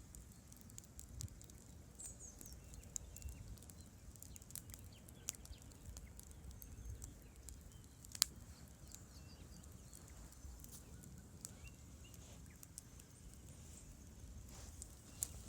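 Wood campfire crackling: scattered sharp pops and snaps, one louder pop about eight seconds in, over a faint low rumble.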